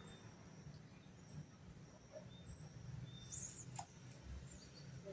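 Quiet riverside ambience with faint, scattered high bird chirps; a brighter rising chirp about three and a half seconds in is followed at once by a single sharp click.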